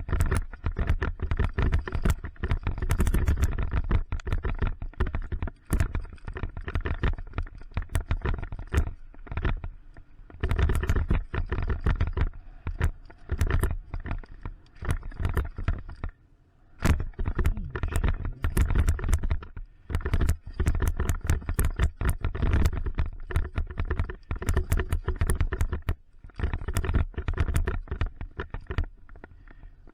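Mountain bike clattering down a rough dirt trail: dense rattling and knocking from the bike over a low rumble of tyres and wind, dropping away briefly a few times, most deeply about halfway through.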